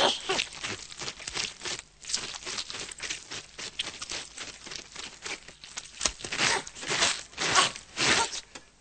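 A rapid, irregular run of short scratchy noises, a little louder in the second half.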